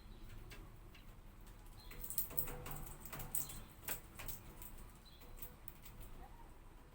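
Hawfinch ticking: irregular sharp clicks, most of them bunched between about two and four seconds in, with a few short high chirps.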